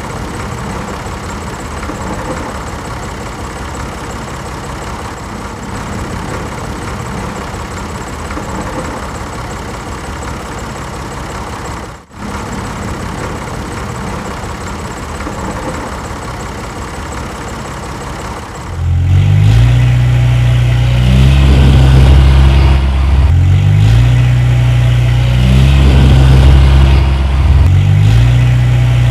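Motor vehicle engines running during a stuck-in-mud recovery of a small truck and a tractor. About two-thirds of the way in, a much louder, deep engine drone comes in, its pitch shifting up and down every couple of seconds as the throttle changes.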